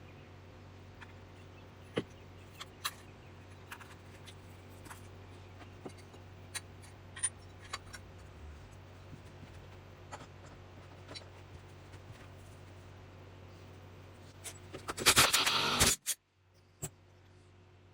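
Light scattered clicks and scrapes over a steady low hum. About a second from the end a loud hissing burst lasts roughly a second, then the hum drops away.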